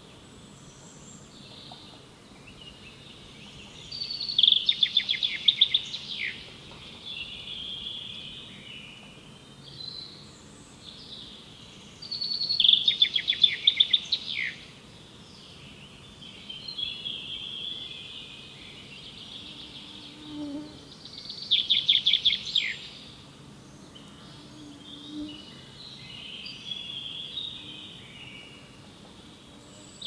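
Forest birdsong. One songbird repeats a loud, fast trilling phrase three times, about eight seconds apart, each dropping in pitch at its end. Fainter calls of other birds fill the gaps.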